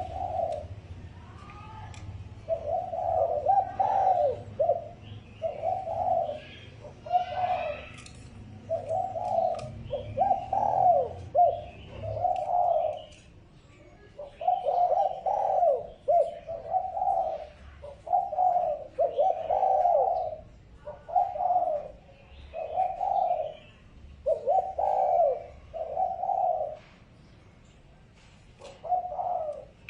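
Spotted dove cooing over and over in short phrases of low coos, with a pause of a couple of seconds near the end. Fainter chirps of smaller birds sound in the first part.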